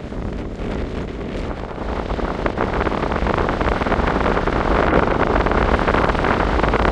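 Wind buffeting the microphone, a rumbling rush that grows gradually louder.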